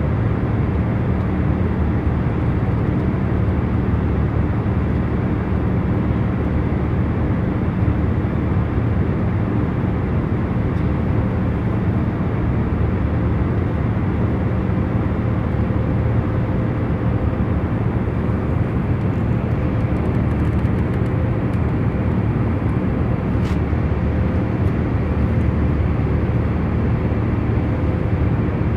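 Airliner cabin noise in cruise: a steady low rumble of engines and airflow, with a few faint steady hum tones in it.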